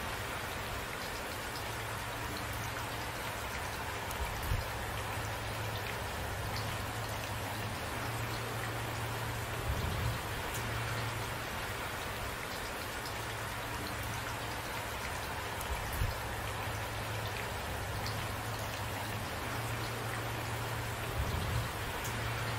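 Steady rain falling, with single drops pattering on a surface. Four short, louder low thuds come about every six seconds.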